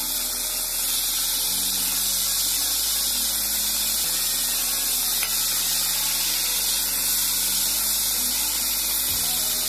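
Chopped raw papaya, potato and beans frying in oil in a kadai, giving a steady, bright sizzling hiss.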